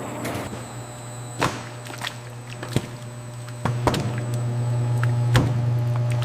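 Machinery running with a steady low hum, with about six sharp, irregular clanks or knocks.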